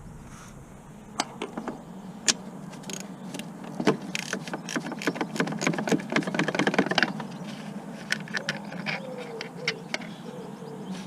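Hand tools clicking and clanking on metal, with a fast run of ratchet-like clicks in the middle.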